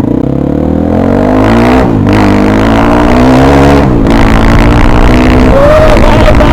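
Motorcycle with its exhaust dB killer removed, accelerating hard: the engine note climbs, drops sharply with an upshift about two seconds in, climbs again, drops with a second upshift about four seconds in, then holds steady. Loud throughout.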